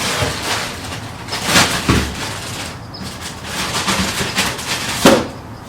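Handling noises: rustling and scraping with a few sharp knocks, the loudest about five seconds in.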